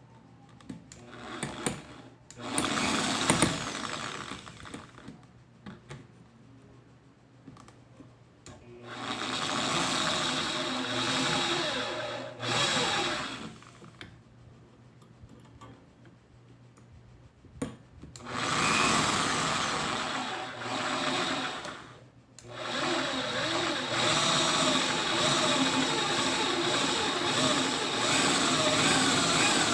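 A small electric motor whining in several spurts of a few seconds each, its pitch wavering as the load changes; the last run is longer and steady.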